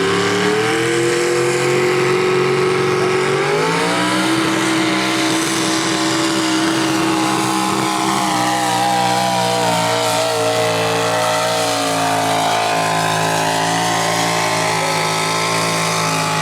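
Mini rod pulling tractor's engine running hard under load during a pull. It climbs in pitch about half a second in and again around four seconds in, then holds at high revs.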